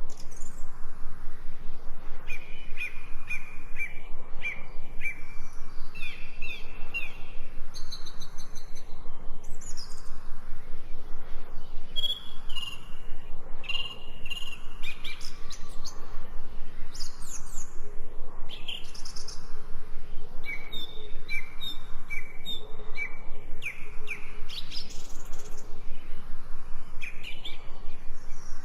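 Songbirds chirping and singing, several birds calling in runs of short repeated notes over a steady background hiss.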